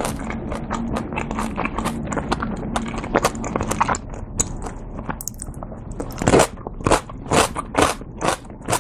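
Close-miked chewing of a mouthful of dumplings, picked up on a lapel mic: dense crackly clicks for the first few seconds, then loud, steady chews about two a second from about six seconds in.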